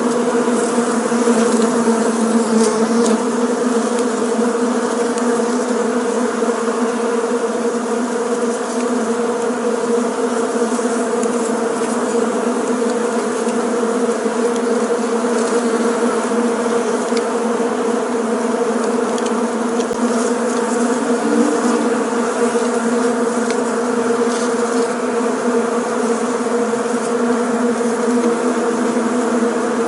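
Bees buzzing together in a steady, unbroken hum.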